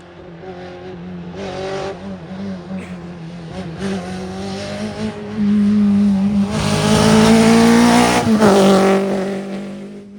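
Historic rally car's engine approaching at speed on a special stage, revving up and down through the gears, loudest about eight seconds in as it passes, then dropping in pitch and fading away.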